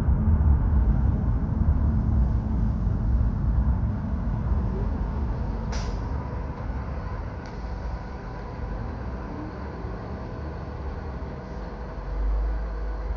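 Road vehicle noise: a low rumble that fades over the first several seconds and swells again near the end, with a brief high squeak about six seconds in.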